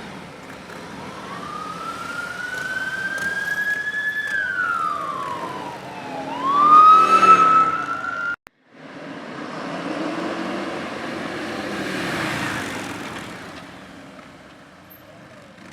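Police motorcycle siren wailing: the pitch climbs, sweeps down and jumps back up, loudest about seven seconds in, then cuts off abruptly. After the cut, motorcycle engines run past, swelling and then fading.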